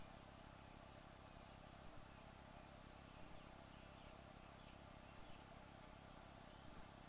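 Near silence: a steady low hiss with a faint, thin high tone, and a few faint small ticks.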